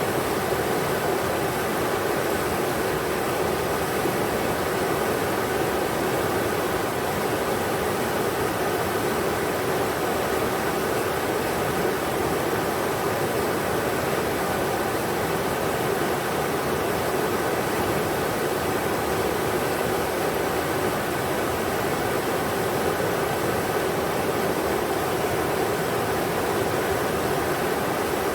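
River water rushing over rocks in a steady, even roar of white noise, with no breaks or single splashes.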